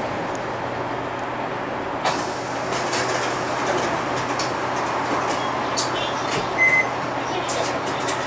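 Cabin sound of a Nissan Diesel Space Runner RA city bus: a steady diesel engine hum under road noise. About two seconds in, a sudden rise of hiss starts, with scattered clicks and knocks after it. A short high beep sounds once about two-thirds of the way through.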